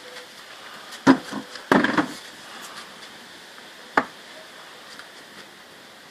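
A few short knocks or taps, a cluster between one and two seconds in and a single sharp one about four seconds in, over a faint steady hiss.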